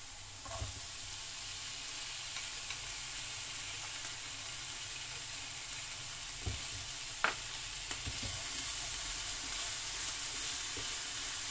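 Onion, garlic and carrots sizzling in olive oil in a frying pan as diced potatoes go in and are stirred with chopsticks, which click against the pan a few times.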